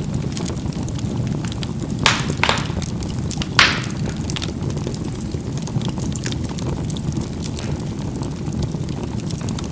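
Charcoal burning in a fireplace with a steady low rumble, the coals crackling and snapping: three sharp pops about two, two and a half and three and a half seconds in, and fainter ticks between.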